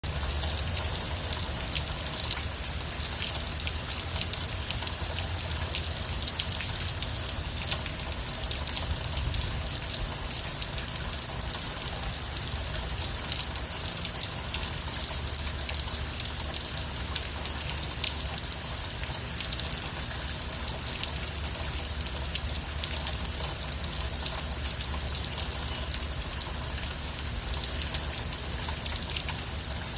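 Steady gentle rain, a dense patter of many small drops, with a low rumble underneath.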